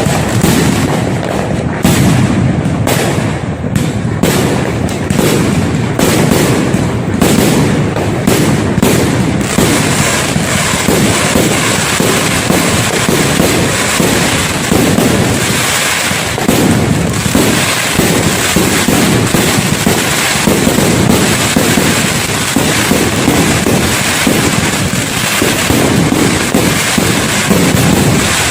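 New Year fireworks display going off continuously: loud, dense, overlapping bangs, with separate bursts easier to pick out in the first ten seconds or so.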